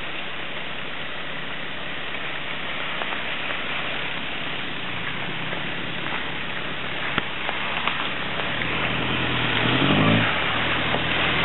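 Range Rover Classic's engine running as the 4x4 crawls through mud and puddles on a forest track, over a steady hiss. About nine to ten seconds in the engine revs up and grows louder.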